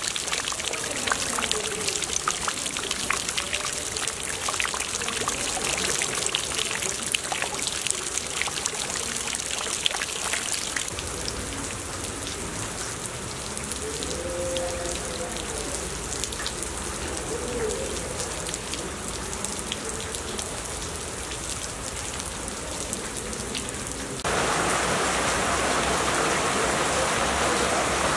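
Rain falling, with distinct drops splashing into puddled water at first. About three-quarters of the way through it changes to a louder, denser, even hiss of rain.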